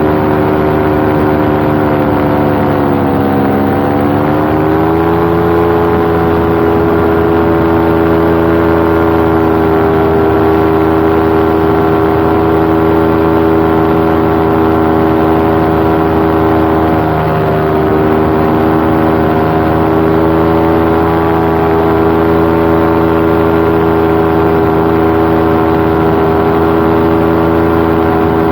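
Paramotor engine and propeller running steadily in flight. The pitch drops for a moment about three seconds in and rises back to cruise, the throttle eased and reopened, with a smaller dip past the middle.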